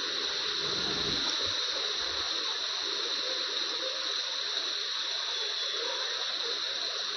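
Heavy rain pouring down, a steady hiss of falling water.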